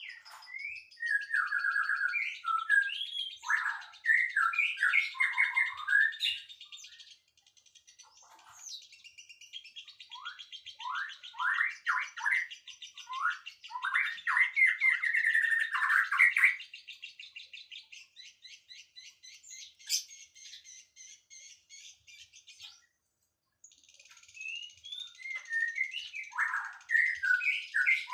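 Songbirds singing: quick runs of chirps and sweeping whistled notes over a fast, buzzy high trill. The song stops for under a second about 23 seconds in, then starts again.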